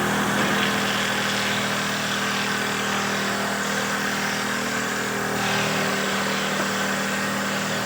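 Homemade wooden dowel-making machine running steadily, its motor making a constant hum under a steady noise.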